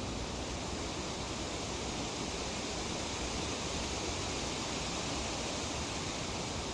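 Breeze rustling through tree leaves as an even, steady hiss, with no separate gusts or other events.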